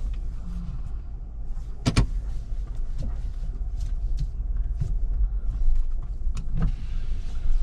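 An off-road vehicle's low, steady rumble, with a few short knocks and clicks scattered through it.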